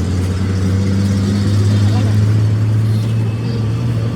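Steady low hum of a running machine, holding one pitch.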